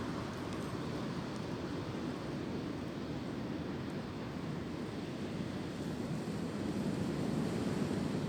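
Wind blowing through tree branches: a steady rushing that swells a little near the end.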